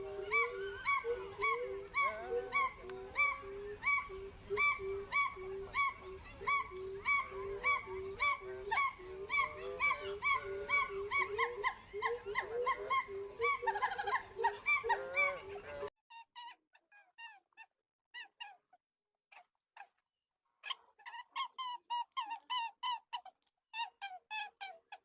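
Animal calls: a dense run of rapidly repeated pitched calls, several a second, then after an abrupt cut about two-thirds of the way through, sparser squeaky chirps.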